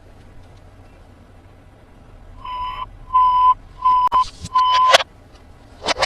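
An electronic toy sounding four even beeps at one steady pitch, about 0.7 s apart, starting a couple of seconds in, with sharp plastic clicks among and after them.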